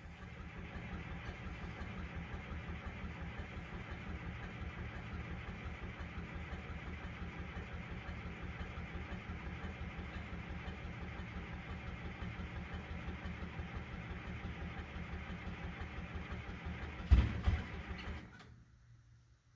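Timberjack log skidder's diesel engine running steadily on a cold start. About 17 seconds in there is a loud sharp bang, and the engine sound cuts off about a second later.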